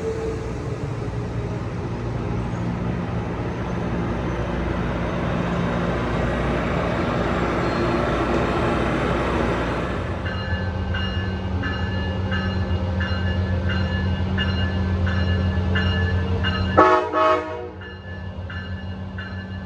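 Diesel train rumbling through with a steady low engine hum; about ten seconds in a bell starts ringing steadily, about one and a half strokes a second. Near the end the locomotive's horn gives two short toots.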